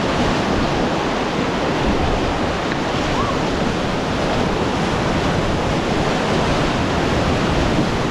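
River whitewater rushing steadily around a raft running a rapid, with wind buffeting the microphone.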